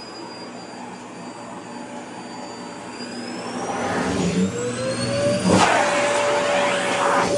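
Vacuum cleaner running while it sucks in a fabric dress. Its motor whine rises in pitch and the sound grows louder over the second half, with a new steady tone setting in about five and a half seconds in.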